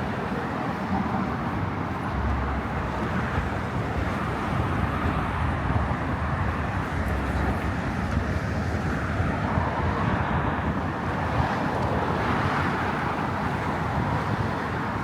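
Steady road traffic noise: a continuous rumble and hiss of passing cars with no single event standing out.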